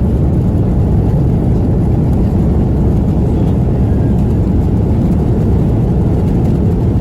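Airbus A330-300 cabin noise: a steady, loud low rumble of the jet engines and rushing air heard from inside the passenger cabin.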